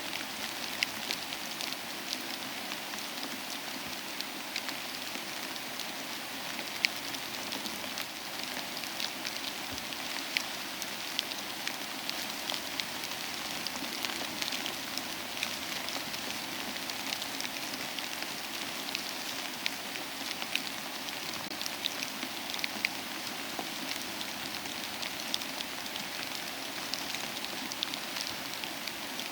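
Steady soft rain, mixed with the scattered sharp crackles of a wood fire in a fireplace.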